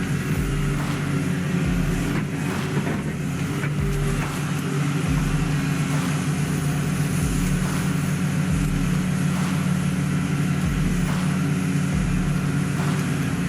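New Holland E19 excavator's diesel engine running steadily, with a low throb recurring every second or two.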